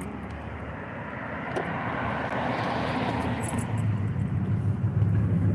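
Road traffic: a car's tyre and engine noise swells as it passes about two and a half seconds in, then a low engine hum grows louder toward the end.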